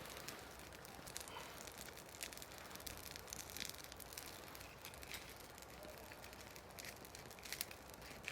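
Small wood fire in a Firebox stove crackling faintly: scattered small pops and clicks over a soft hiss, a few sharper cracks near the end.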